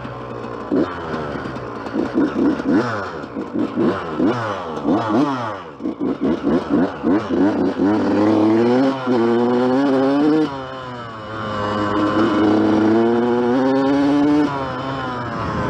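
Yamaha YZ125 two-stroke dirt bike engine being ridden. It revs in quick short blips for about the first six seconds, then pulls through longer climbs and a sustained high-rev stretch. The engine is loaded up (running rich) and is starting to clear.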